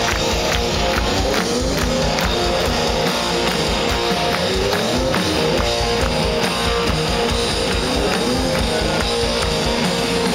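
Rock band playing live: electric guitar over bass and a steady drum-kit beat.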